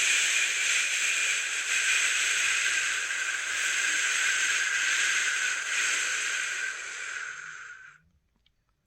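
A person making one long, drawn-out "shhh" shushing sound to soothe a newborn to sleep. It fades out near the end and is followed by a brief pause.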